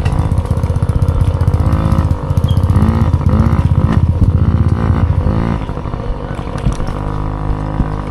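Mini dirt bike engine revving, its pitch rising and falling several times in quick succession, then settling to a steadier, lower note about five and a half seconds in.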